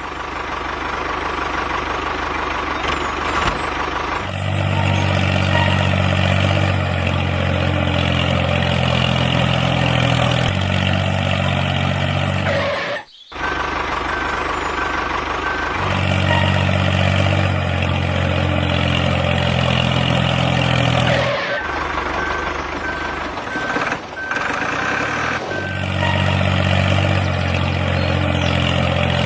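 Heavy-vehicle engine running steadily, with a short break in the sound about 13 seconds in. A rapid series of repeated high beeps, like a reversing alarm, sounds twice.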